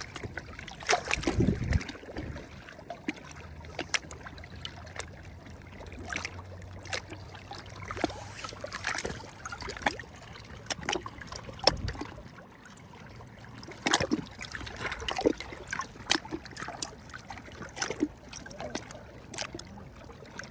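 Small sea waves lapping and splashing at the shore, with many quick, sharp splashes. A heavier low thump comes about a second in, and a faint low hum runs from about three to eight seconds in.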